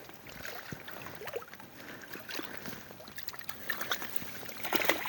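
Water splashing and sloshing, with scattered clicks and knocks, as a hooked rainbow trout is reeled in and thrashes at the surface. The splashing grows louder near the end.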